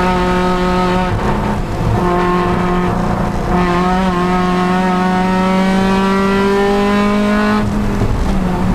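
Honda Civic Si race car's engine running hard at high revs. Its note drops out briefly about a second in and again around three and a half seconds, then climbs slowly for several seconds, with another lift near the end as the car works through the lap.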